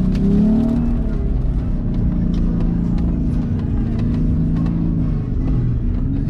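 Pickup truck engine running hard off-road, its pitch rising about half a second in and then holding steady, with scattered sharp clicks over it.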